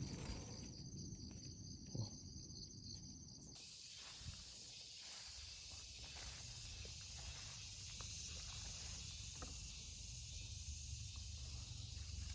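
Outdoor insect noise: a high chirping for the first few seconds, then a steady high hiss, over a low rumble with a few faint taps.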